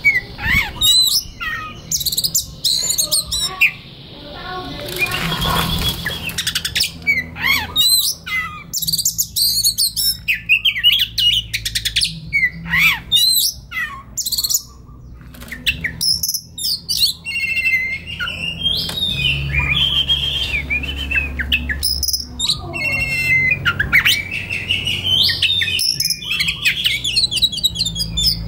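Oriental magpie-robin (kacer) singing a long, varied run of clear whistles, rising and falling sweeps and quick chirping trills, with short pauses between phrases. A low steady hum lies underneath.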